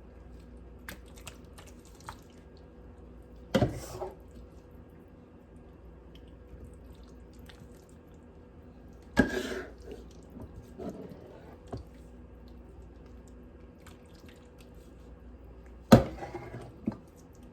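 Thick chicken pot pie filling being spooned from the pot into a baking pan: wet plops and drips of the filling, with three sharp knocks of the metal spoon against the cookware.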